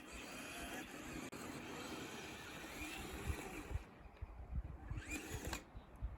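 Radio-controlled Kyosho Blizzard tracked snow vehicle running, its electric drive whining over a steady hiss of tracks in snow. The whine fades about four seconds in, with a short rising whine near five seconds and low rumbling thumps of wind on the microphone.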